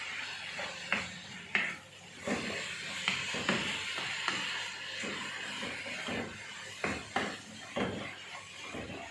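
Kitchen utensils knocking and clinking against a dish at irregular intervals, about a dozen times, over a steady hiss.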